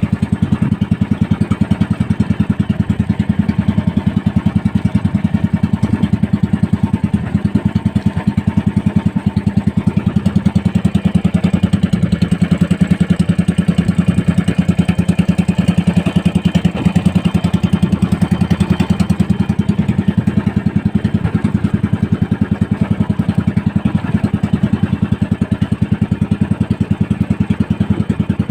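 Small fishing boat's engine running steadily at an even speed, its rapid firing pulses unbroken throughout.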